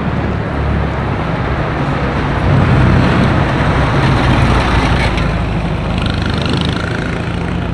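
Car engine running close by amid street traffic, swelling louder for a couple of seconds partway through before easing back.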